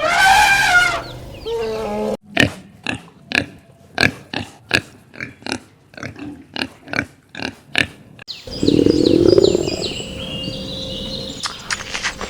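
Pig grunting: a loud squealing call, then a run of short, sharp grunts at about three a second. Near the end the sound changes to high chirping.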